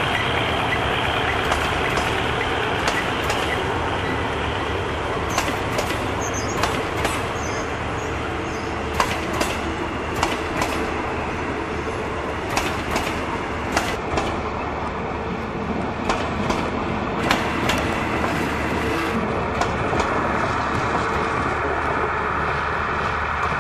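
Railway passenger coaches rolling slowly past on departure: irregular clicks and clunks of the wheels over rail joints over a steady low rumble. A faint high wheel squeal comes in about fourteen seconds in and again near the end.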